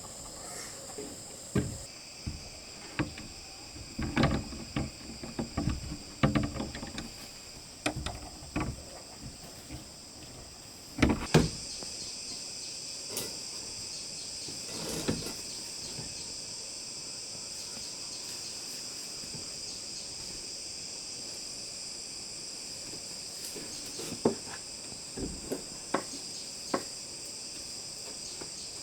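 Steady high-pitched insect chorus, with scattered knocks and clatters, the loudest a pair about eleven seconds in.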